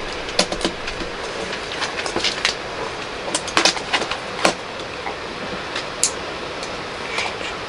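LEGO pieces clicking and rattling as bricks are picked out and snapped together, irregular sharp clicks over a steady background hiss.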